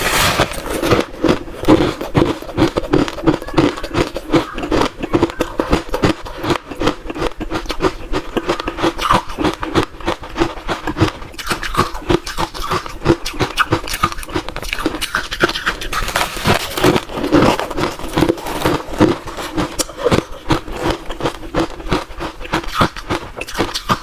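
Crunchy ice being chewed close to the microphone, a continuous stream of rapid crunches and crackles.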